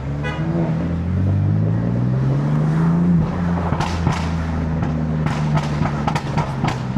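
BMW F80 M3's twin-turbo inline-six accelerating, its note rising for about three seconds, then easing off while the exhaust pops and crackles several times.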